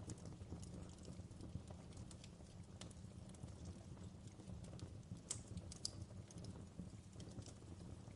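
Fireplace crackling: small irregular pops and snaps over a low, steady rumble of the fire.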